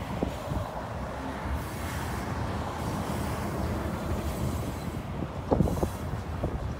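BNSF freight train of tank cars rolling past with a steady rumble of wheels on rail, and a few sharp clacks about five and a half seconds in.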